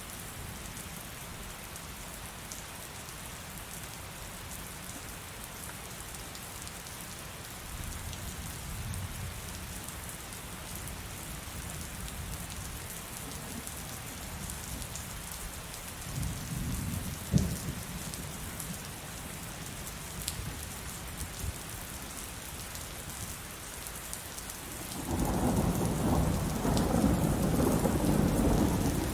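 Heavy rain falling steadily, with thunder: low rumbles, a sharp crack a little past halfway, and a loud rolling peal that starts near the end.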